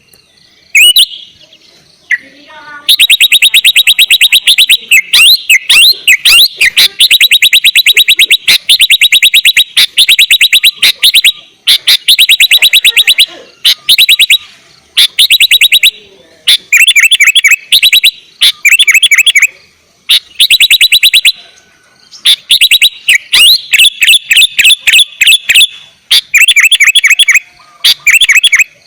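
Sooty-headed bulbul (kutilang) singing loudly in rapid trilled bursts of one to two seconds, separated by short pauses.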